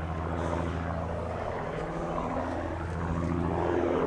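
Piston engines of a de Havilland DH.88 Comet racer, its twin Gipsy Six engines, running steadily as a low propeller drone. The drone swells slightly near the end.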